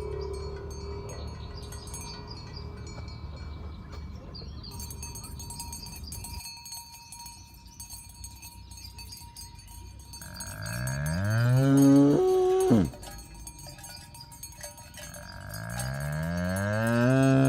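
Two long cow moos a few seconds apart, each rising in pitch and then holding; the first breaks off sharply and the second runs on past the end. Faint metallic chiming and clinks sound underneath.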